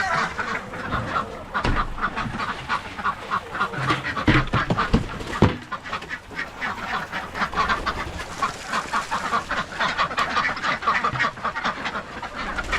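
Flock of chickens and ducks calling all at once, a dense run of quick clucks and quacks as the birds come out of the coop in a rush. A few low thumps about four to five seconds in.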